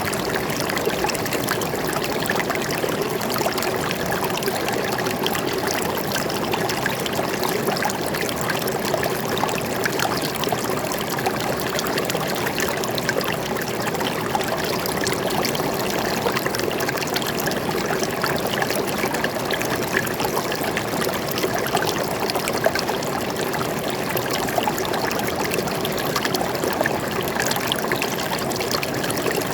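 Stream water flowing and trickling steadily, a continuous rushing with many small splashes and bubbling crackles.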